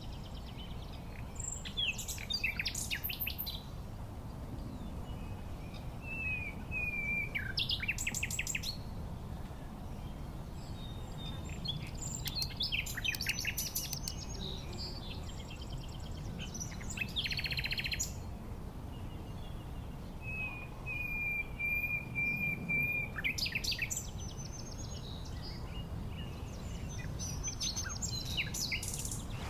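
Songbirds singing and calling in short bursts of rapid trills and chirps every few seconds, one of them holding a steady whistle for a couple of seconds about two-thirds of the way through, over a steady low background rumble.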